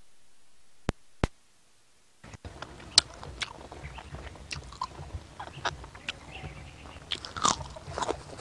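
Close-miked chewing and biting of grilled chicken eaten by hand: two sharp clicks about a second in, then from about two seconds in a steady run of small wet clicks and crunches.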